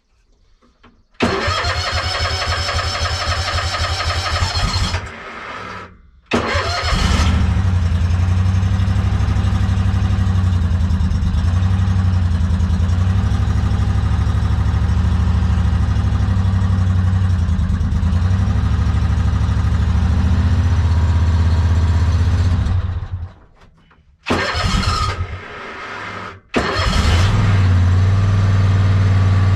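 A lawn mower engine is cranked on its electric starter in two bursts, catches and runs steadily. About two-thirds of the way in it dies, is cranked again and restarts near the end.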